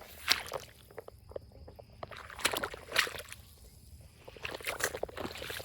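Footsteps through waterlogged, soupy ground: irregular wet steps in clusters.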